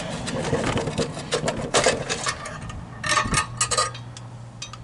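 Hand tools working on metal parts of a small mower engine: a run of irregular clicks, scrapes and rattles, loudest about three seconds in.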